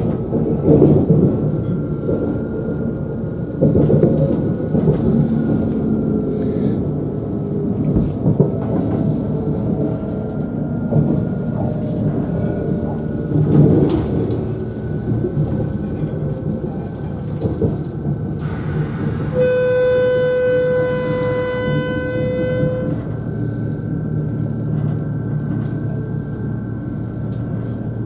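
Steady running noise inside a CrossCountry Class 220 Voyager diesel-electric train: the low rumble of the underfloor diesel engine and wheels on the rails, with a faint whine over it. About two-thirds of the way through, a train horn sounds one long note of about three seconds, just after a short hiss.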